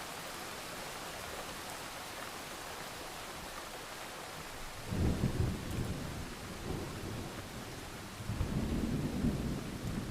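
Steady rain hiss with two low rolls of thunder, the first about halfway through and the second near the end.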